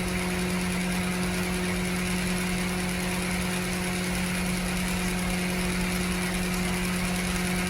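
A small motor running with a steady, unchanging hum over an even hiss.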